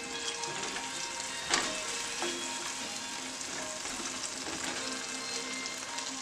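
Shrimp with garlic and green onion sizzling in oil in a nonstick frying pan, as tongs turn them, with a few light clicks and one sharp click about a second and a half in.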